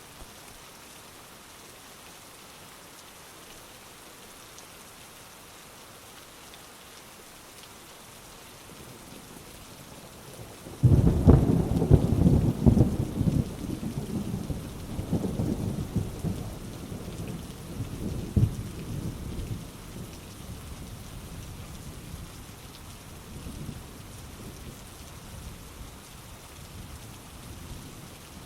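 Steady heavy rain, with a thunderclap about eleven seconds in that breaks suddenly and rolls on in several diminishing rumbles for about eight seconds before the rain alone carries on.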